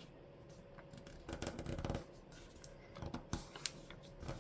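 A sheet of printer paper being folded by hand: brief rustling and crinkling, then sharp scrapes and ticks as fingers run along the fold to press the crease flat.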